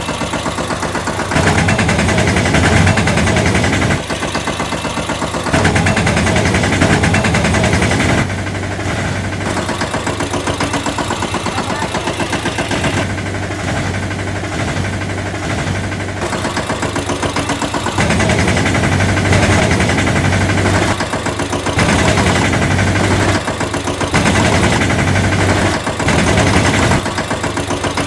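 Engine running at idle with a rapid, even chugging pulse. It shifts between louder and quieter stretches every few seconds.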